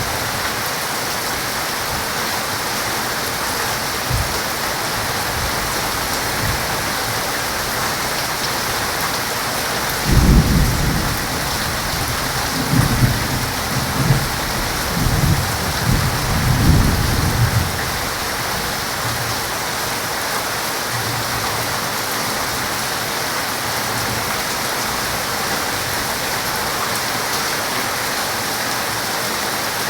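Heavy rain falling steadily. About a third of the way in, thunder rumbles in several low surges that roll on for about eight seconds before fading back under the rain.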